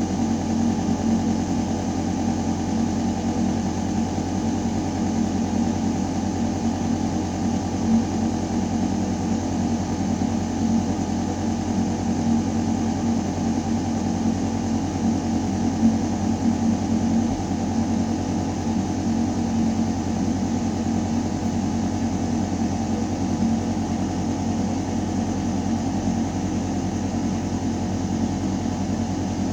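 Building ventilation system running: a steady mechanical hum of fan and air moving through metal ductwork, with a deep drone and a few steady tones over an even rush of air.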